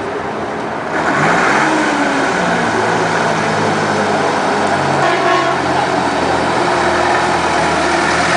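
Classic truck engine speeding up about a second in, rising in pitch and getting louder, then running steadily.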